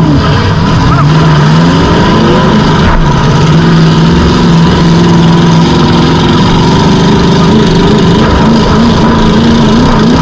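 Demolition derby car's engine running loud, heard from inside the stripped cabin: it revs up and falls back about a second in, holds a steady note, then wavers with quick throttle blips near the end.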